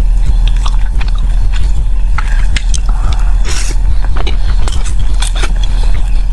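Close-miked chewing of sticky glutinous rice zongzi with Cantonese sausage: many small wet mouth clicks and smacks, with a short hissing slurp about three and a half seconds in, over a steady low hum.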